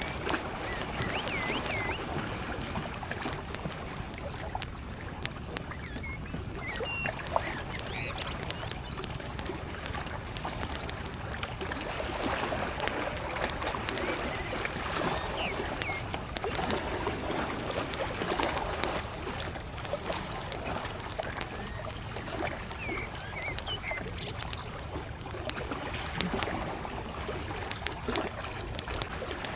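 Small waves lapping at a lakeshore, swelling and easing, with a campfire crackling in sharp irregular pops and scattered short bird chirps in the distance.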